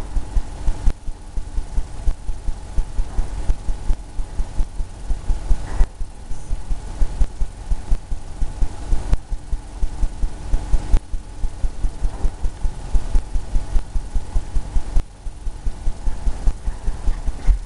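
Paintbrush dabbing and scrubbing oil paint onto a canvas on an easel, a rhythmic run of dull low thumps about four a second with brief pauses between spells of strokes.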